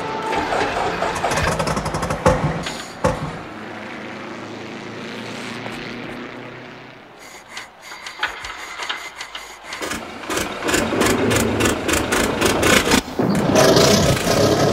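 The Il Tempo Gigante race car's engine being started with a hand crank: a run of rapid clicks as the crank turns, then the engine sputtering into life and getting louder over the last few seconds. Loud engine noise fills the first few seconds.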